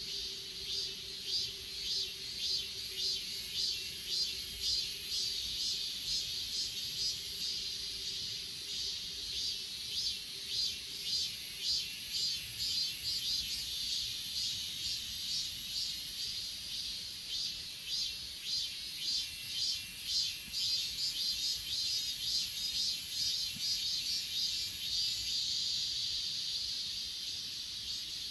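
Grass insects chirping in a steady, rhythmic chorus of high-pitched pulses, over a continuous very high trill. A faint low steady tone underneath fades out about halfway through.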